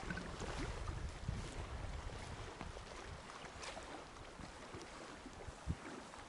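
Wind rumbling on the microphone over a steady outdoor hiss, with a few faint knocks.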